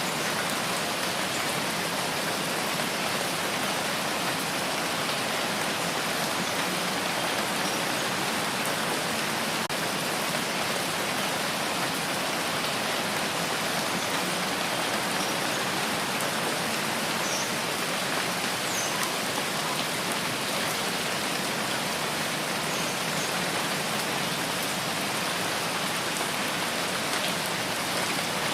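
Steady rain falling, an even, dense patter that does not let up.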